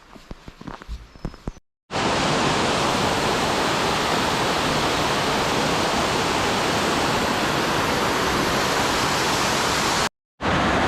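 Footsteps on a trail for the first second and a half, then after a sudden cut the loud, steady rush of a waterfall.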